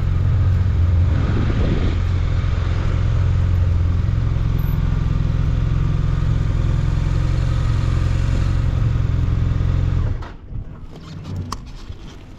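Honda CBR1100XX Blackbird motorcycle's inline-four engine running steadily while the bike is ridden. About ten seconds in, the engine sound drops away suddenly, leaving fainter scattered noises.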